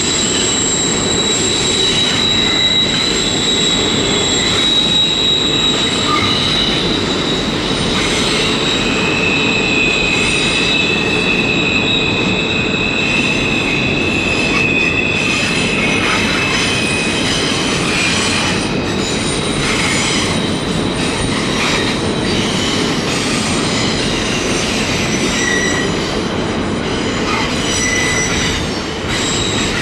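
Long CN intermodal freight train rolling steadily across a steel trestle, its steel wheels giving off several overlapping high-pitched squeals as the cars take the curve, over the continuous rumble of the cars.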